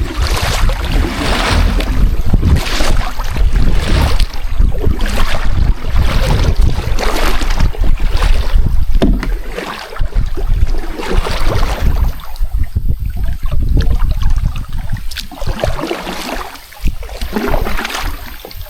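Kayak paddle strokes in creek water, a rhythmic swish about every second or so, over a heavy rumble of wind on the microphone. The strokes thin out about twelve seconds in, then pick up again.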